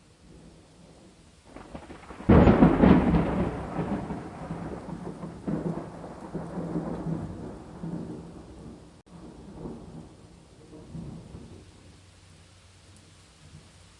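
A thunderclap breaks suddenly about two seconds in, then rolls on as rumbling swells that fade away over the next ten seconds. Faint steady rain hiss runs underneath.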